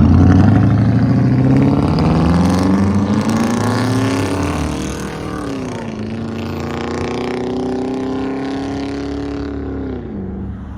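Pickup truck with true dual exhaust accelerating: the engine note climbs, drops at a gear change about five seconds in, climbs again and drops near the end. It fades as the truck pulls away.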